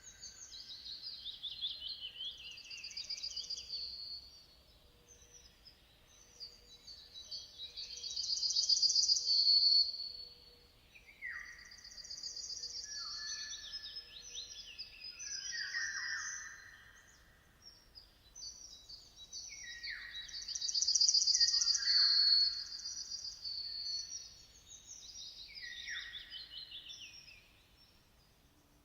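Songbirds singing in repeated phrases of high chirps and trills, with lower sweeping notes in between. The loudest phrases come about a third of the way in and again about two thirds of the way in.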